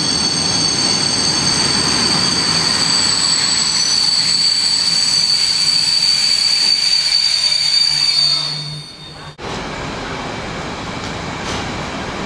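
Freight train of container flat wagons rolling past, its wheels giving a steady high-pitched squeal over the rumble of the running gear. About nine seconds in, the squeal cuts off abruptly and only a quieter, even rolling rumble goes on.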